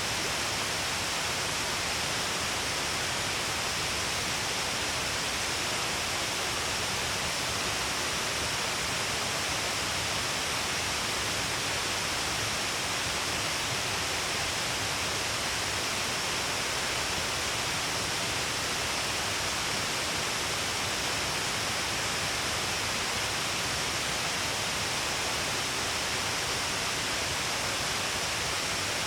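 Shiraito Falls, a wide curtain of many falls along a cliff carrying a heavy flow of water, pouring as a steady, even rush of water that never changes.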